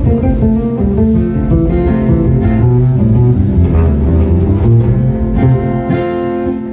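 Acoustic guitar and bass playing an instrumental break, with the bass playing a melodic solo in its low register over the guitar.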